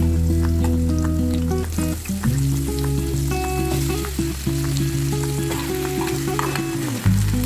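Food sizzling and crackling as it fries in a pan, with some stirring, over background music of held chords that change about two seconds in and again near the end.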